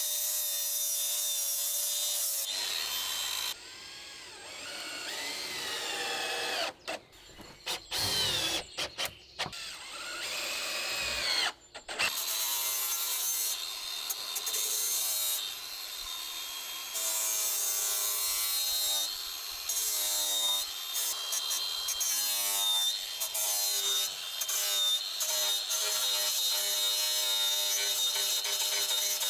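Handheld electric power tool working wood, its motor pitch rising and falling with several short stops and restarts in the first half, then running more steadily.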